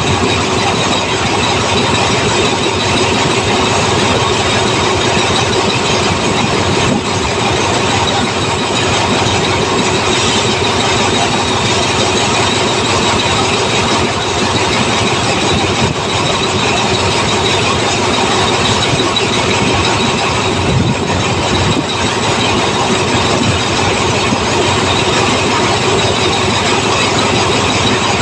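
A diesel train of the State Railway of Thailand close by, its engine and rail noise loud and steady throughout.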